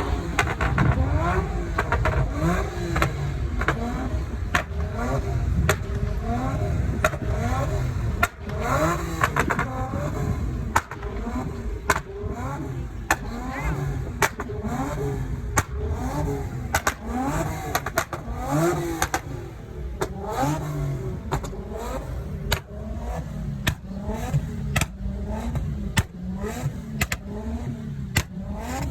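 Car engines revving again and again, the pitch rising and falling about once a second, with frequent sharp cracks over the top.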